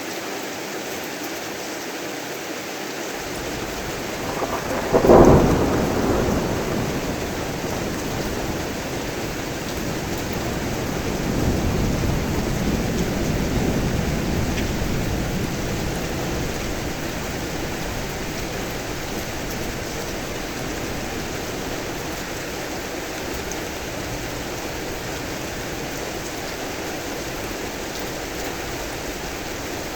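Heavy rain falling steadily, with a sharp thunderclap about five seconds in, the loudest moment, then a longer rumble of thunder that swells and fades a few seconds later.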